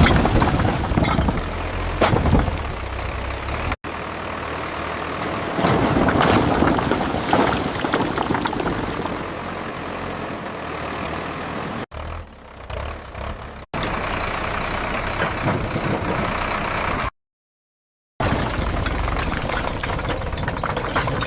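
Tractor engine running, heard in several separate stretches that break off abruptly, with a second of dead silence near the end.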